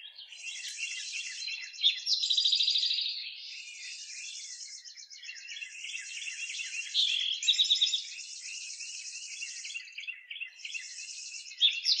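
Several birds chirping and singing together, with high buzzy trills recurring throughout. A louder song phrase stands out about two seconds in, again about seven seconds in, and again near the end.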